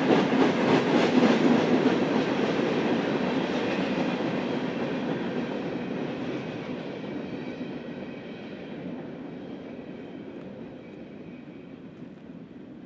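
Union Pacific train rolling past on steel rails, with rhythmic wheel clicks at first, then fading steadily as it moves away.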